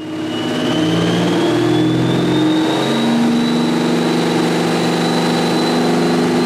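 Whipple-supercharged Ford 5.0 Coyote V8 of a 2016 Mustang GT running steadily, with a thin high supercharger whine that climbs slowly in pitch.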